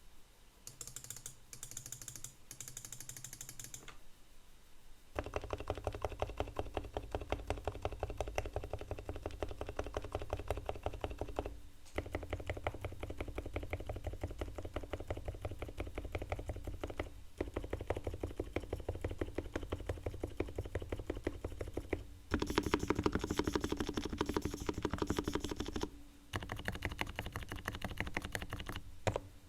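Fast continuous typing on a Realforce R3 TKL silent-switch Topre keyboard with 45 g uniform weighting, fully tuned: Krytox wet-lubed sliders and springs, levelled and lubed stabilizer wires, Thinsulate dampening. It gives a rapid run of soft, muted keystrokes with brief pauses, and a louder stretch of typing about three quarters of the way through.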